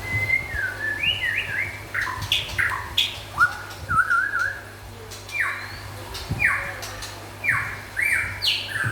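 White-rumped shama (murai batu) singing a varied song of clear whistled notes and slurs with a quick warbled trill, then a run of repeated sharply falling notes in the second half.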